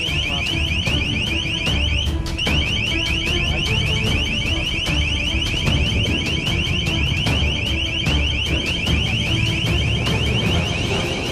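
Electronic alarm sounding a rapid, continuous train of short rising beeps, broken once for a moment about two seconds in, over a low rumble.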